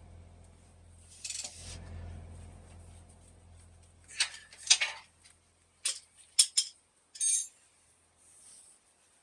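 Metal tools and parts clinking and clanking, about half a dozen sharp strikes in the second half with a short rapid rattle near the end, while a low hum fades out.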